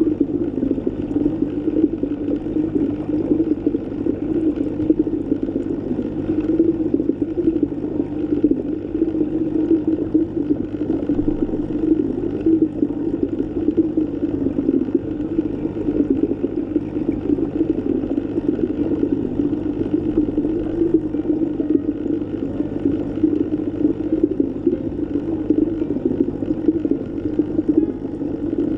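Steady underwater ambience: a low, muffled, continuous wash of water with a faint low hum beneath it.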